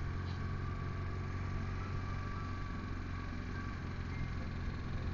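BMW touring motorcycle engine running steadily, an even low drone with no changes in pitch or level.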